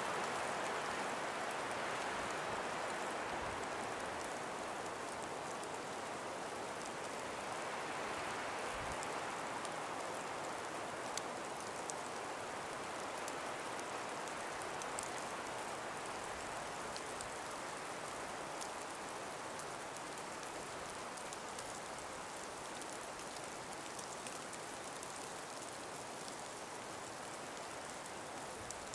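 Calm breeze blowing through ice- and snow-laden forest trees: a steady hiss that swells a little at the start and again about eight seconds in, then slowly eases, with scattered faint ticks.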